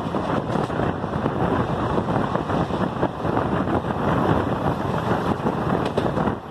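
Steady running noise of a moving train heard through an open carriage window or door: the continuous rumble of wheels on rails, mixed with wind buffeting the microphone.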